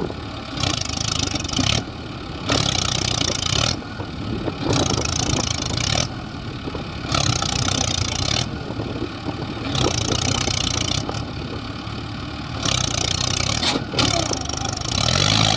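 Heavy diesel engines of a tractor and a JCB backhoe loader running steadily, with a loud hiss that cuts in and out every second or two.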